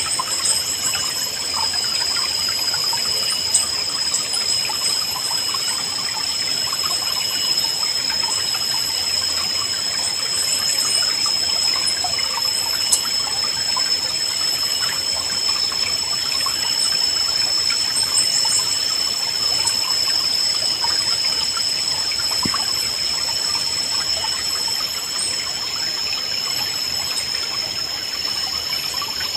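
River water trickling and babbling steadily. A steady high-pitched tone runs throughout, and small birds give short chirps now and then.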